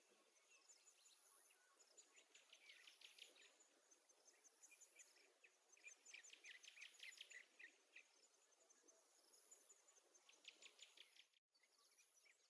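Very faint bird chirping in several quick runs of short, high notes, over a thin, steady, very high insect-like whine that comes and goes. The sound drops out for a split second near the end.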